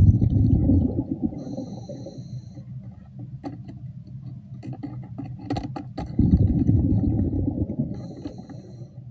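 Scuba diver's breathing through a regulator: two loud rumbling bursts of exhaled bubbles, each followed by a short hiss of inhaling, with sharp clicks in between.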